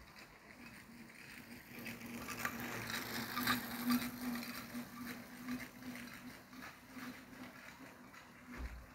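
Freight train cars rolling past, wheels clicking over the rails with a steady low hum underneath; the rumble swells to its loudest about three to four seconds in and then eases.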